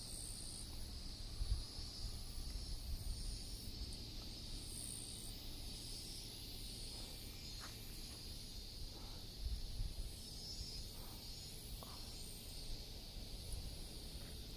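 Insects chirring steadily in high, slightly pulsing tones over a low rumble of wind on the microphone.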